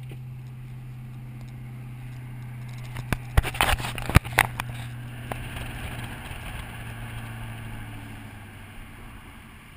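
A car engine humming steadily, heard from inside the cabin, with a quick cluster of sharp clicks and knocks about three to four and a half seconds in. The engine note eases off near the end.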